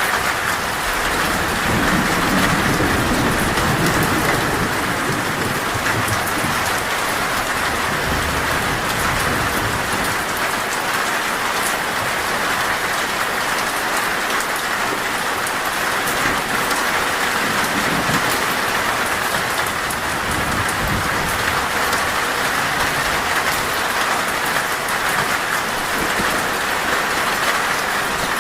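Torrential rain falling steadily on a metal roof, a dense, even hiss. Low rumbles of thunder swell a couple of seconds in and again past the middle.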